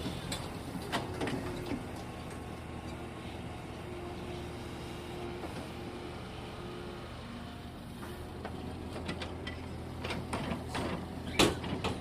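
Kobelco excavator's diesel engine running steadily, with a few sharp knocks near the end, the loudest about a second before the end.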